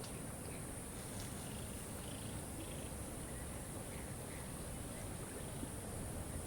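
Waterfall rushing steadily, with a few faint, short bird chirps over it.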